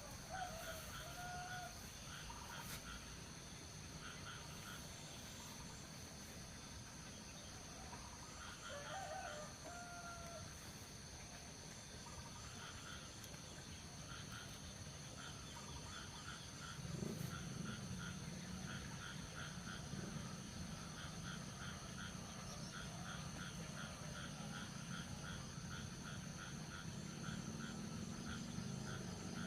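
A rooster crowing in the distance twice, each call rising and then held. Under it there is a steady high-pitched outdoor background with a fast rhythmic ticking, and a low rumble comes in about halfway through.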